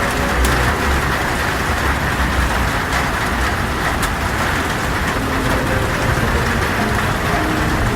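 Heavy rain falling steadily on a tin roof, with scattered sharp ticks of single drops and a low rumble underneath.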